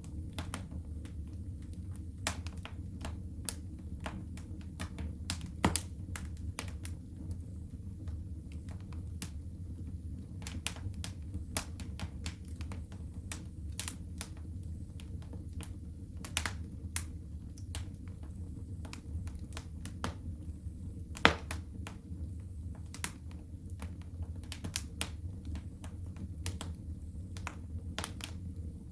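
Wood fire crackling in a fireplace: irregular sharp pops and crackles over a low steady rumble. Two pops stand out as louder, about six seconds in and about twenty-one seconds in.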